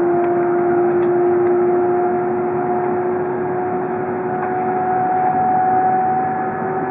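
Tohoku Shinkansen train running at speed, heard from inside the passenger cabin: a steady rumble of running noise with a whine that slowly rises in pitch.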